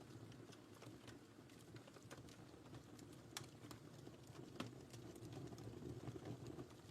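Wood fire crackling faintly in a fireplace: scattered small snaps and pops over a low steady rumble, with a couple of louder pops midway.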